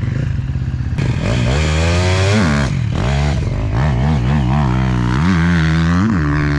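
Dirt bike engine idling and being revved: one long rev up and back down about a second and a half in, then a run of quick throttle blips, a steadier stretch, and two more blips near the end.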